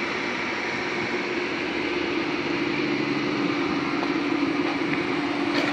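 Supercharged Ford Mustang GT 5.0 V8 with Corsa exhaust idling steadily, with no revving.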